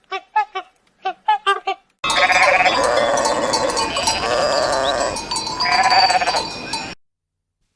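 Farm animals calling: a string of short pitched calls, then many overlapping calls from about two seconds in that cut off suddenly about seven seconds in.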